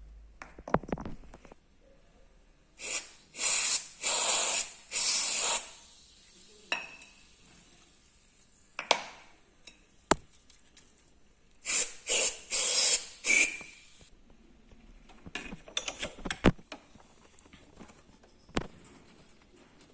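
Aerosol can spraying penetrating oil and lubricant onto an engine idler pulley in short hisses: about four bursts a few seconds in and three more past the middle. Sharp clicks and knocks of handling come in between and afterwards.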